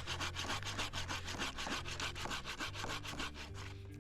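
Bahco Laplander folding saw cutting through a dry, dead hanging log in fast, even back-and-forth strokes, fading out near the end.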